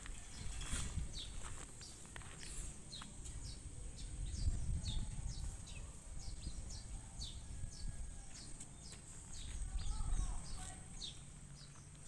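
Small birds chirping, with many short, quick falling chirps repeated about once or twice a second and a steady high thin whine behind them. A low rumble swells and fades a few times.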